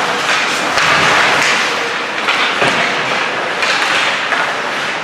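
Ice hockey game in play: skates scraping and carving on the ice in repeated hissing bursts, over a faint murmur of spectators in the rink, with a single knock about two and a half seconds in.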